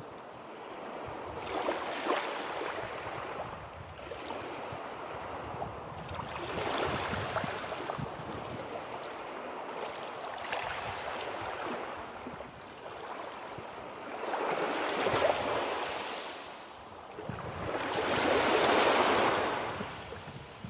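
Sea waves breaking and washing on a shore, the surf swelling and ebbing every few seconds, the largest wave about 19 seconds in. Some wind on the microphone.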